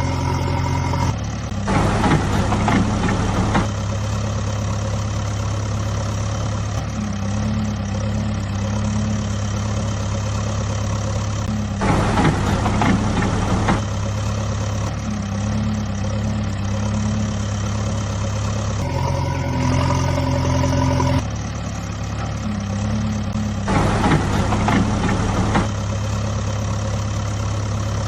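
Diesel engine of a heavy vehicle, such as a backhoe loader or tractor, running steadily with a low hum. The sound changes abruptly every few seconds, and three louder, rougher stretches of revving stand out.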